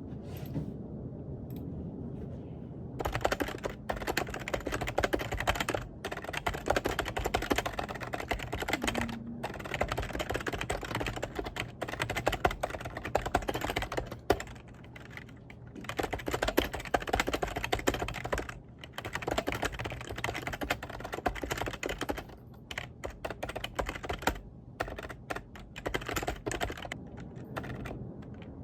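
Fast typing on a computer keyboard, starting about three seconds in and going in quick runs of key clicks with short pauses between them.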